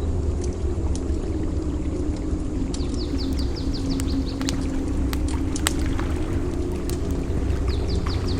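A campfire crackling with sharp, scattered pops over a steady low rumble of surf. Twice, a bird gives a quick run of high, falling chirps.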